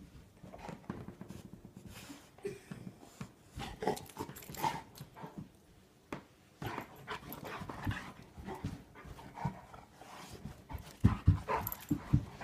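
Golden retriever panting and sniffing in short irregular bursts as it noses and paws at a chew treat on carpet, with a few louder thumps near the end.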